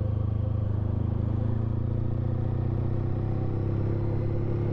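Honda ST1300 Pan European's V4 engine running steadily while the motorcycle is ridden at an even speed, the engine note holding level throughout.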